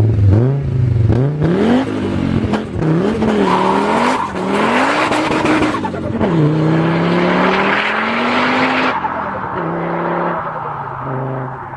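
Car engine accelerating hard from a standing start, its note climbing and dropping back at each of several gear changes, with tyre noise beneath it. About nine seconds in it settles to a steadier, lower note that fades.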